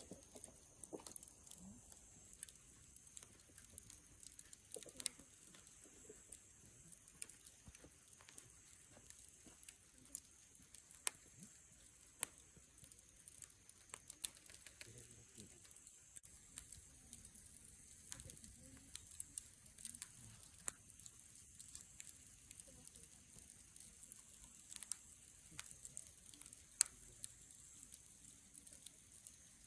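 Wood campfire crackling faintly: irregular sharp pops and snaps, a few of them much louder, over a soft hiss.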